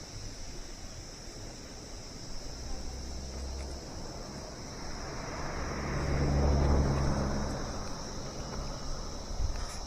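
Steady high-pitched drone of insects over a constant background rush, with a low rumble swelling for a couple of seconds around the middle.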